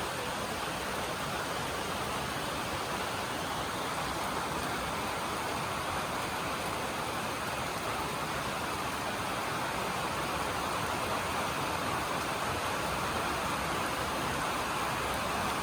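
Steady rain falling on a metal roof: an even, continuous hiss with no breaks.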